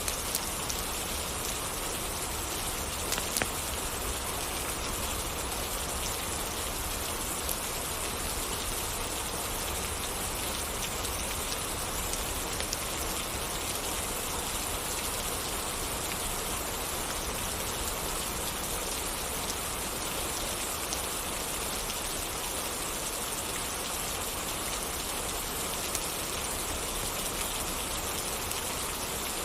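Steady rain falling, a dense even hiss with an occasional faint click.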